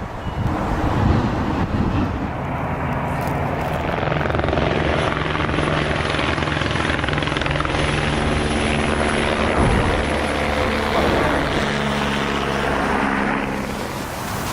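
A large engine drones steadily, a low hum with several pitch lines under a rushing noise, easing off near the end.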